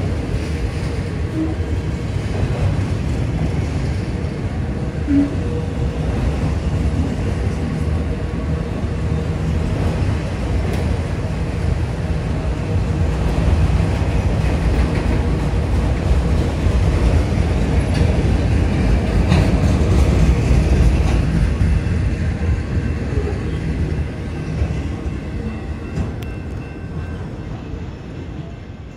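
Enclosed autorack freight cars rolling past on the rails: a steady, loud rumble of steel wheels with a few sharp clicks, fading over the last few seconds as the end of the train goes by.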